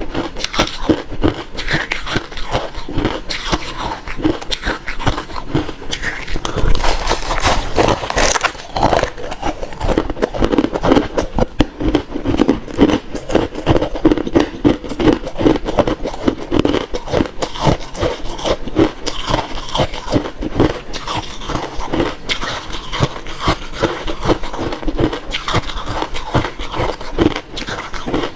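Close-up chewing of refrozen crushed ice: rapid, continuous crunching, bite after bite.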